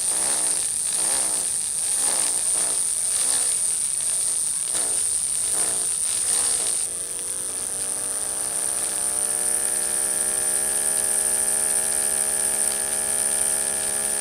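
Small electric motor of a DIY toy tractor's circular saw attachment whining steadily. For the first half its pitch repeatedly dips and recovers, about three times every two seconds, as the blade bites and loads the motor; about halfway through it settles into a smooth hum that slowly rises in pitch as it spins up.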